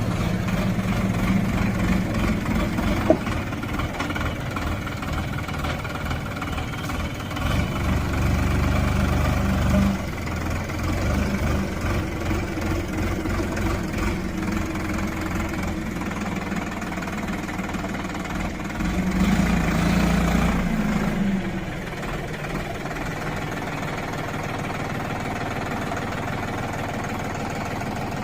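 Sonalika DI 47 RX tractor's diesel engine running. It swells louder near the start, again about eight seconds in and again about twenty seconds in, then settles to a steadier, quieter drone. A single sharp click comes about three seconds in.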